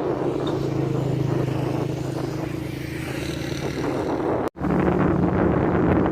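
A motor vehicle's engine running steadily over a continuous rushing noise. The sound cuts out for an instant about four and a half seconds in, then resumes with a slightly higher engine hum.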